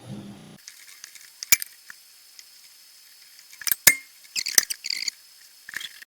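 A few sharp, scattered clicks and short scratchy rustles from small parts being handled while heat-shrink tubing is readied for the switch's wire connections.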